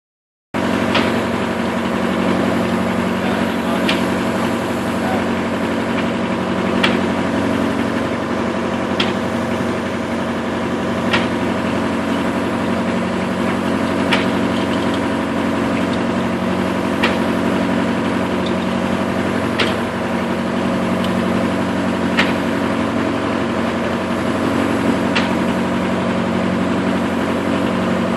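Sawmill machinery running with a steady, even hum, with a short sharp click or chirp about every two and a half to three seconds.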